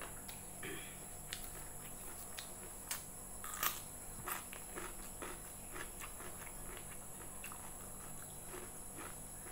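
Close-up eating sounds: chewing with short crisp clicks, and a sharp crunching bite into a raw cucumber about three and a half seconds in, the loudest sound.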